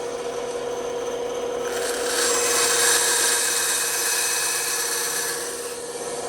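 Bandsaw running with a steady hum while its blade cuts through wood; the cutting noise grows louder about two seconds in and eases off near the end.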